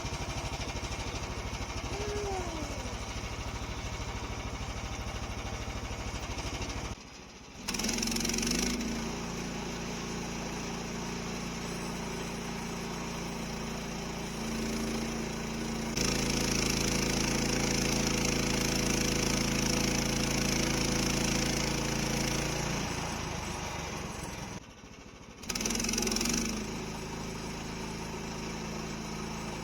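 Portable sawmill's gasoline engine running steadily while the blade saws through a maple log, the cutting loudest and hissiest for several seconds past the middle. The sound drops out briefly twice.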